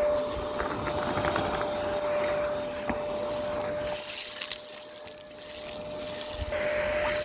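Miele Complete C2 Tango EcoLine canister vacuum running with a steady motor whine and rushing air, with crackling of small debris being sucked up in the first couple of seconds; it gets quieter for a moment just past the middle.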